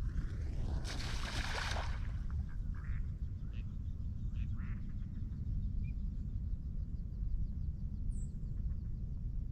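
Ducks quacking in a few short calls, over a steady low rumble, with a brief rushing noise about a second in.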